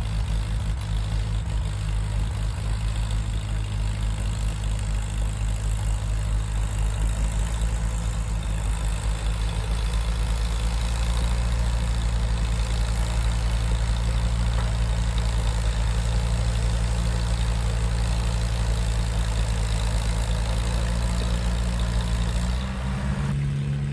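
An antique farm tractor engine running steadily at a constant pitch. Near the end the engine sound changes abruptly to a higher, stronger note.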